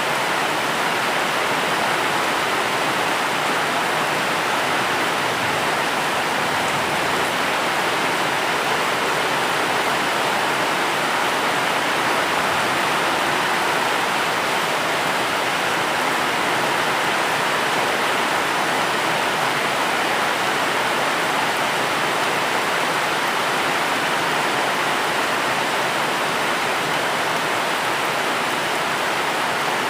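Steady rain falling, an even continuous hiss without separate drops or thunder.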